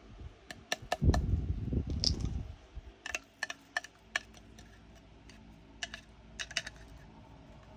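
Diamond-painting resin drills ticking and clicking against a plastic sorting tray and container as they are tapped and shaken loose, with a burst of rustling handling about a second in. The drills are clinging to the tray from static.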